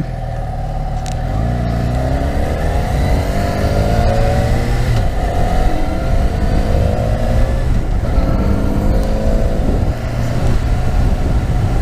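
2012 Yamaha FZ6R's 600cc liquid-cooled four-cylinder engine pulling under acceleration while riding. Its pitch climbs, drops back about five seconds in, climbs again, and dips near the end, over a steady low rumble of wind on the microphone.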